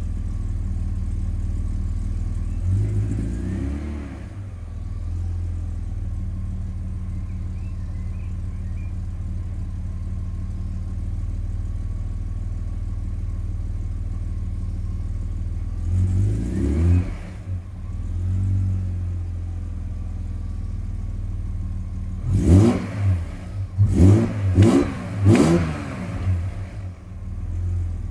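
ESS-supercharged BMW E46 330Ci's straight-six idling, heard from inside the cabin. The engine is revved once about halfway through, then blipped several times in quick succession near the end. This is during warm-up after a start, when the car runs badly until warm; the owner wonders whether the ECU's warm-up map is to blame.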